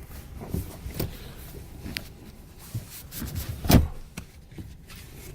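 Scattered knocks and clicks of the pickup's rear-seat interior being handled, with one louder knock a little under four seconds in.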